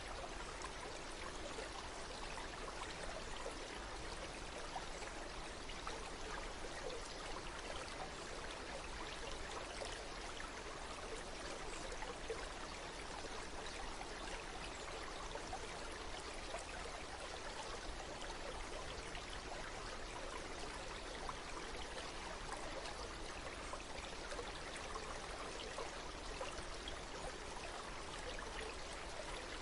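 Water flowing in a stream, a steady rushing and trickling.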